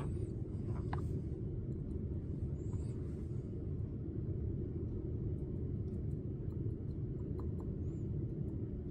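Steady low background rumble, with a few faint small clicks.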